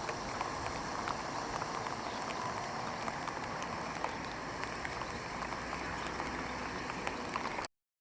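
Steady rain falling, with scattered drops ticking close by; it cuts off abruptly near the end.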